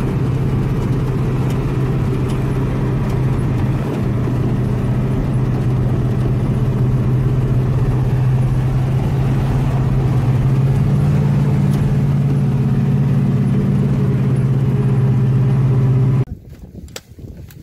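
A motor vehicle's engine running steadily, loud and close, with a deep even hum that rises slightly in pitch partway through and cuts off abruptly near the end.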